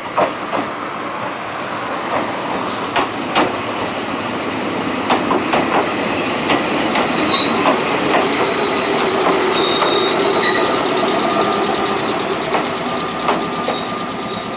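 Ichibata Electric Railway 3000 series electric train (ex-Nankai 21000 series) pulling into the station. Its wheels click over rail joints and points in the first half, then thin high squeals sound as it slows to a stop.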